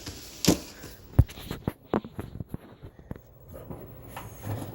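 Scattered light knocks and clicks of handling things in a kitchen, the sharpest knock about a second in.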